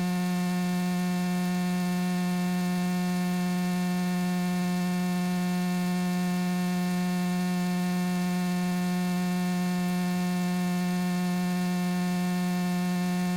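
Steady electrical hum on the cockpit radio and intercom audio feed, one low buzzing tone with a stack of overtones that never changes, over faint hiss.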